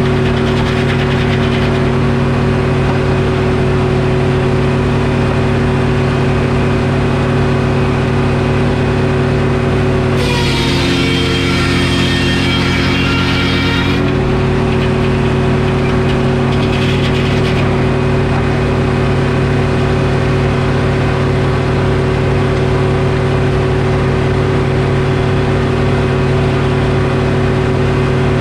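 Detroit Diesel engine driving a Frick sawmill, running steadily. About ten seconds in, for some three and a half seconds, the engine's pitch drops under load while a high whine rises from the saw blade as it cuts through the oak log.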